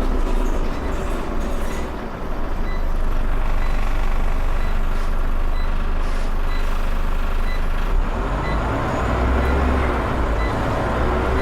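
Scania Omnicity bus's diesel engine running, heard from the rear seats near the engine. A high electronic beep repeats about three times every two seconds through the middle, and the engine's low note grows stronger near the end as it pulls harder.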